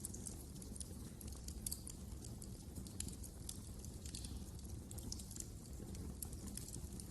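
Wood fire crackling in a fireplace: frequent small irregular pops and snaps over a steady low rumble of the flames.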